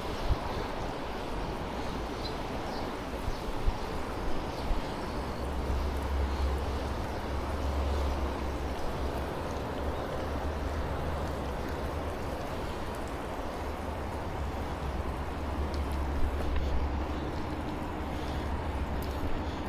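Steady riding noise from a moving bicycle: a constant hiss, with wind buffeting the camera microphone in low rumbles that swell and ease, and a few light knocks.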